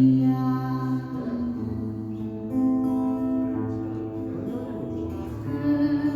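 A woman singing a slow Korean folk ballad live, over long held accompaniment chords.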